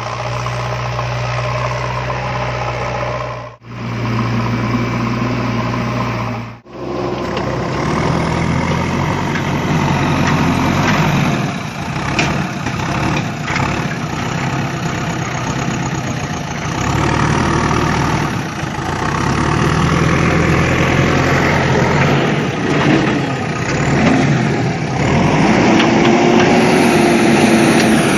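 Machine engine running with uneven rises and falls in pitch. The sound drops out briefly twice in the first seven seconds.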